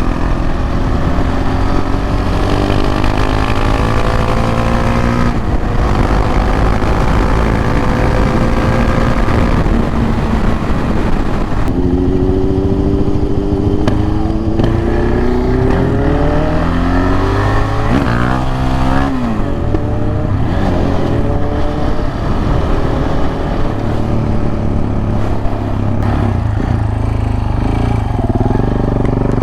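Single-cylinder motorcycle engine of a KTM 690 Duke R under way, its pitch rising in several long pulls as it climbs through the gears. About two-thirds of the way in the pitch dips sharply and climbs again. Steady wind rush runs underneath.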